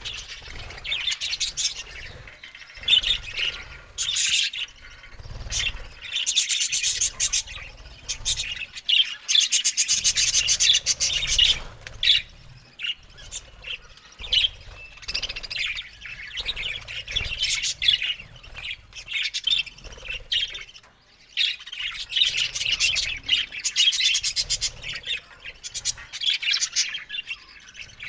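A flock of budgerigars chattering, a dense, continuous mix of chirps, warbles and squawks from many birds at once.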